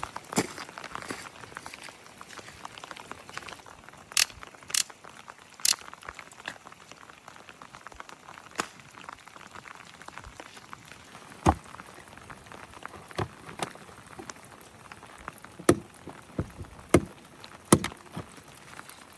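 Heavy rain falling steadily, with about a dozen sharp, irregular taps of single drops landing, several of the loudest in the second half.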